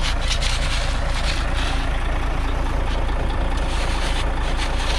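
Vehicle engine idling steadily, with irregular scraping strokes of a shovel digging out the ground around a stuck car.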